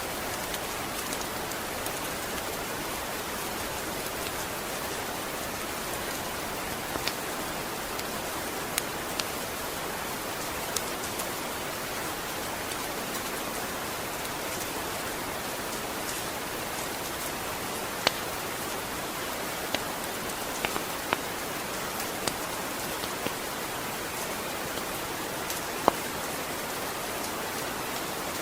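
Steady rain falling, an even hiss with scattered sharp ticks of single drops, the loudest about two-thirds of the way in and near the end.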